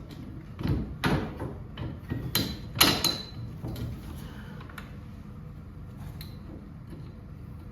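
Sharp metal knocks and clanks from handling and fitting garage door torsion spring hardware, a cluster of strikes in the first three seconds, then quieter.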